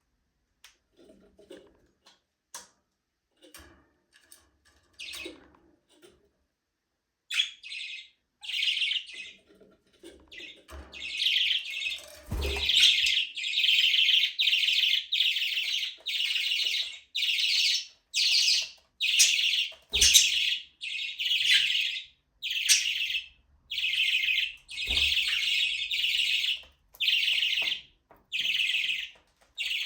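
Budgerigars chirping in short, loud bursts about once a second. The chirping starts some seven seconds in, after a quiet stretch with a few faint clicks.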